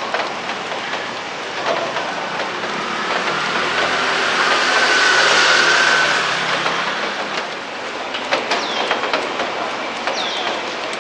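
Steady rain with scattered drips and taps. In the middle a passing vehicle swells with a faint hum and fades away. Near the end there is a short falling chirp.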